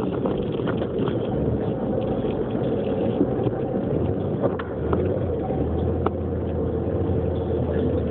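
Car driving on snowy roads, heard from inside the cabin: a steady rumble of engine and tyre noise, with a low drone that grows stronger about halfway through and a few light clicks.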